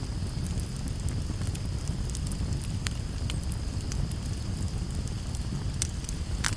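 Campfire burning: a steady low rumble from the flames with scattered sharp crackles and pops, a loud pop near the end.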